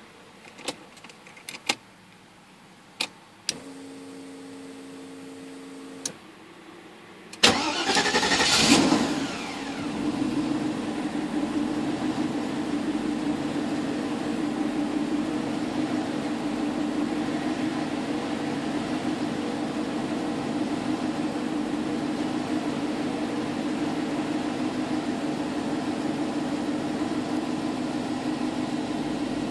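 Mercedes M119 5.0 V8 being started: a few clicks and a short steady hum, then the engine cranks and catches about seven seconds in. It revs up briefly and settles into a steady idle.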